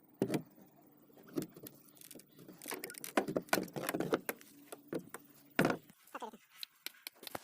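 Irregular knocking and clattering: a string of sharp knocks and clicks at uneven intervals, busiest in the middle.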